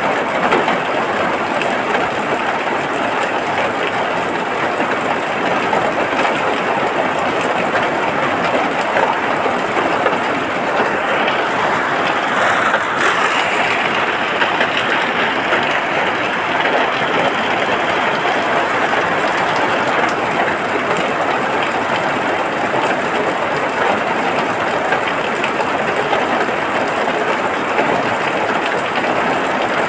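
Steady, heavy rain falling, a dense continuous patter that swells slightly a little under halfway through.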